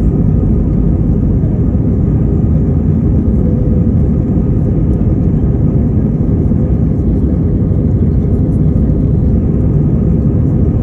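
Airbus A321-200's twin turbofan jet engines at takeoff thrust: a loud, steady, deep rumble that holds at one level.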